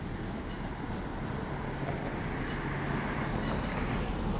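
Two MTR electric trains, an East Rail line R-Train and a Tuen Ma line SP1900, rolling in together: a steady rumble that grows slightly louder, with a low hum coming in about a second and a half in, over city traffic noise.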